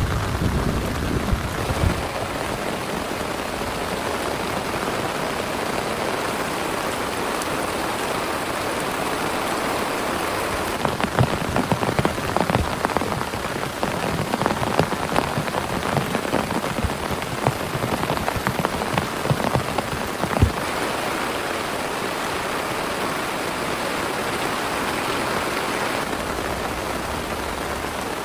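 Heavy rain falling steadily. A low thunder rumble fades out in the first couple of seconds, and from about a third of the way in until about three quarters through, louder individual drops tap on a surface over the rain.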